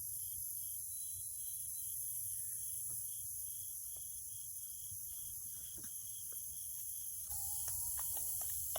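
Insects chirping in a steady pulsing rhythm, about three chirps a second, over a constant high hiss, with scattered faint ticks and a short pitched call near the end.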